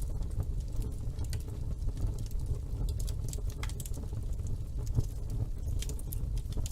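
Wood fire burning in a fireplace: a steady low rumble of flames with frequent sharp crackles and pops, one louder pop about five seconds in.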